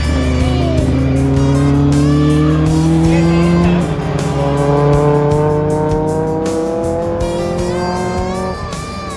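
Car engine accelerating hard on track, its pitch climbing steadily through one gear, dropping at an upshift about four seconds in, then climbing again through the next gear.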